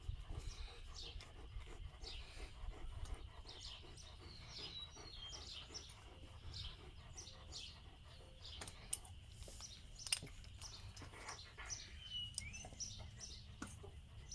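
Birds chirping now and then over a faint, steady, high-pitched hum. There are scattered soft clicks and rustles, and two sharp knocks a second apart about two-thirds of the way through.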